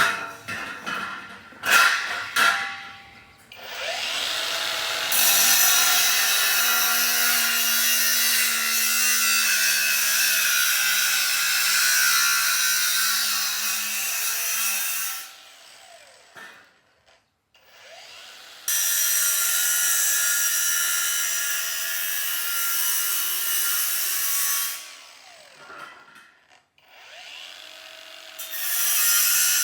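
A few sharp knocks, then a handheld power tool cutting or grinding on the banana cutter's frame: a steady, loud, high hiss that runs in long stretches and stops twice for a few seconds.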